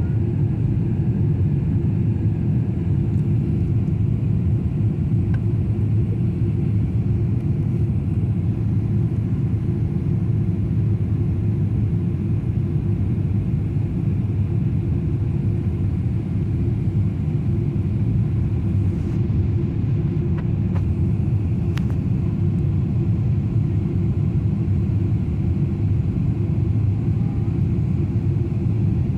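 Steady low rumble of a Boeing 777-300's engines and rushing air, heard inside the passenger cabin during descent. A faint click comes about three quarters of the way through.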